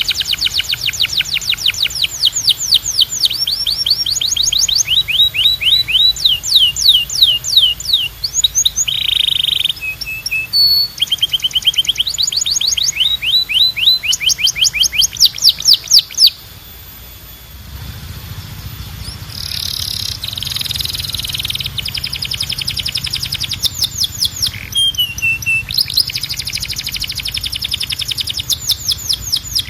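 Domestic canary singing, a long song built of rapid trills: runs of fast, evenly repeated sweeping notes that change speed and pitch from one run to the next. The song breaks off about 16 seconds in and resumes a few seconds later over a low steady hum.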